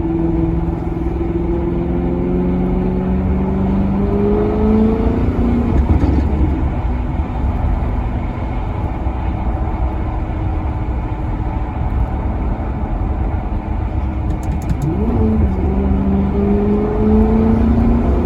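Maserati Quattroporte Sport GT's V8 accelerating under load. The engine note climbs for about five seconds and drops off at a gear change, then holds steady before climbing again in a second pull near the end, over a deep rumble.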